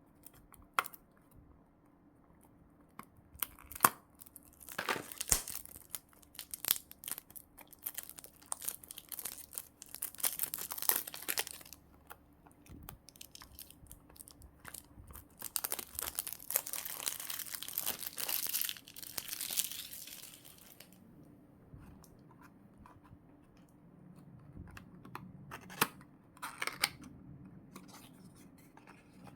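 Plastic packaging being torn open and crinkled by hand, in several bursts of rustling with sharp clicks and taps between them; the longest burst comes about two-thirds of the way through.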